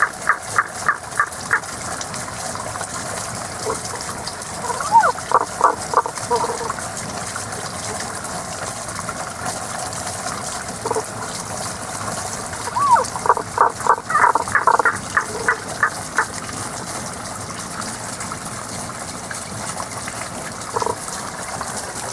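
Frogs calling in three bouts of short, repeated mid-to-high notes, about four or five a second, some bouts opening with a sliding note, over the steady rush of flowing spring water.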